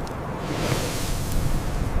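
Blizzard wind blowing in gusts: a rushing hiss that swells and fades over a steady low rumble.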